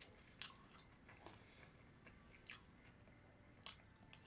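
A person chewing and eating a mouthful of fried rice up close, with soft mouth sounds and a few sharp clicks.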